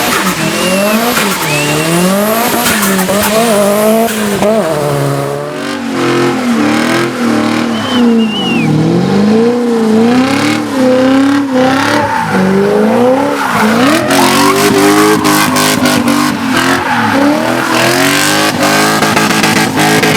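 Car engine revving hard up and down, over and over, with sharp exhaust pops and crackles that come thicker in the second half, and a few short high tyre squeals.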